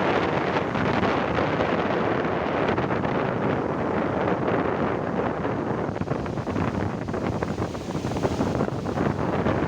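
Wind buffeting the microphone over the steady rush of big surf breaking.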